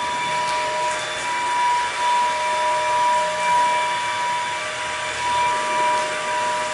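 A machine running steadily, an airy rushing noise with a constant whine, swelling and easing slightly about once a second.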